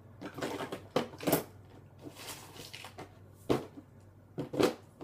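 Craft supplies and small containers being handled and packed into a storage bin: a few separate knocks and clatters with some rustling between.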